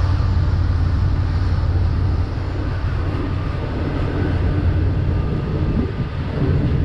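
Freight train passing close by with a steady low rumble.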